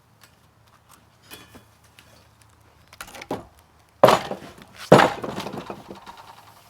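Light clicks and rustles, then two loud knocks or clanks about a second apart, each trailing off.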